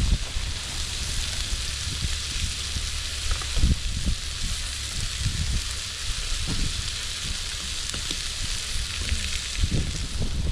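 Burger patties sizzling steadily as they cook, a continuous frying hiss, with irregular low thumps of wind on the microphone.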